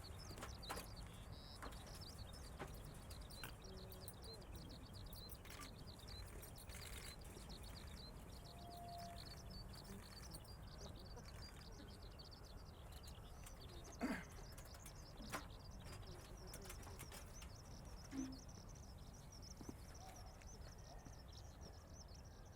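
Quiet outdoor ambience: a steady, rapid high-pitched chirping runs throughout over a low hum, with a few short knocks in the second half.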